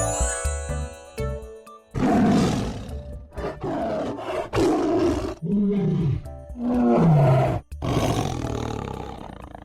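Tiger roaring and growling: a string of about six loud roars, some falling in pitch, that fade out near the end. A short jingle of music plays before the first roar, which comes about two seconds in.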